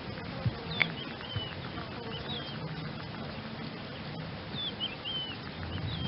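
Outdoor ambience with a steady hiss, short high bird chirps coming several times, and two brief knocks about half a second apart near the start.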